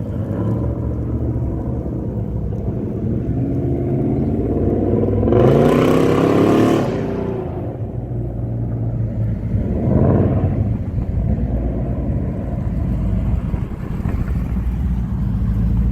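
Car engine running with a low rumble, revving up with a rising pitch about four to six seconds in, and again more briefly about ten seconds in.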